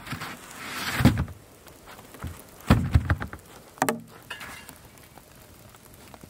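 A few heavy thumps and knocks with rustling between them: a swelling rustle ending in a thump about a second in, a cluster of thumps near the middle, and a sharp knock shortly after.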